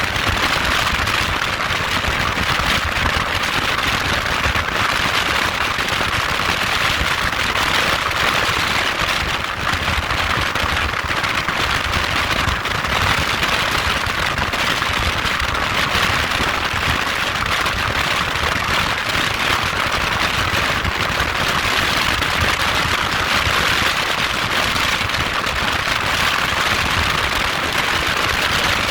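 Motorcycle engine running steadily: a dense, rapid crackling rattle over an even hiss.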